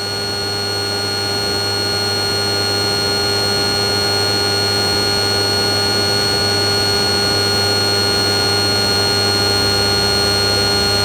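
Steady electrical hum and hiss with several fixed tones, unchanging apart from growing slightly louder over the first few seconds.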